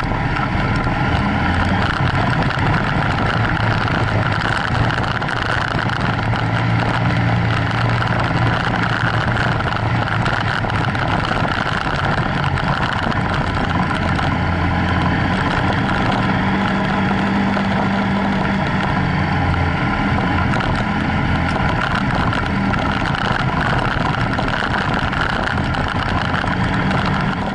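BMW F800GS's parallel-twin engine running steadily while the bike is ridden, its pitch shifting a few times with throttle and speed, over wind and road noise.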